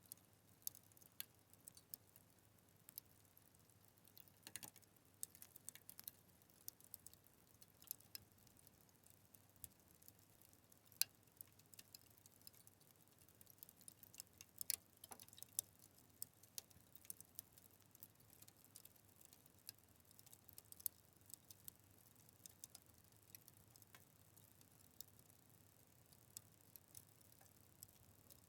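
Fire crackling: irregular sharp pops and snaps over a faint hiss, with a louder snap about eleven seconds in.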